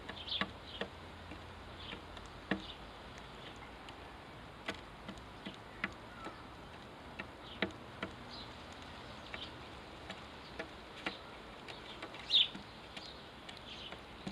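Short, high chirps of house sparrows, scattered irregularly among many sharp clicks and taps. The loudest chirp comes about twelve seconds in.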